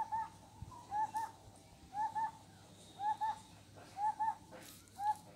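A bird calling: short paired notes, each rising and falling in pitch, the pair repeated about once a second, six times.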